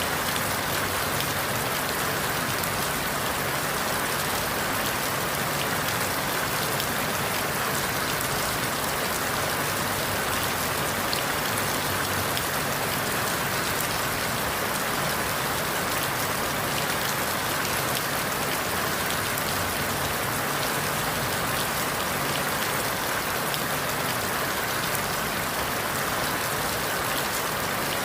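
Steady rain falling through forest leaves, an even hiss with fine drop ticks and no change in level.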